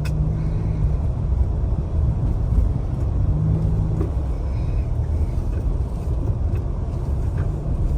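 Vehicle driving on a slick snow-covered road, heard from inside the cabin: a steady low rumble of engine and tyres, with a faint engine tone coming and going.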